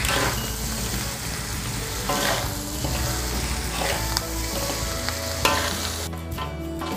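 Fried quail and sliced vegetables sizzling in a wok as they are stir-fried, with a stirring scrape every second or two. The sizzle drops away about six seconds in.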